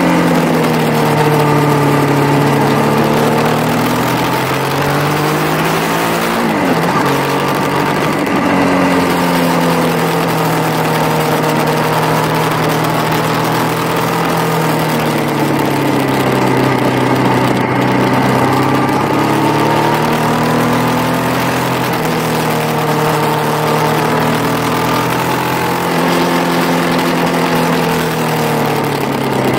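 Motorcycle engine running hard around a track, its pitch falling as the rider slows for corners and rising again as he accelerates out, several times over, with steady wind noise at speed.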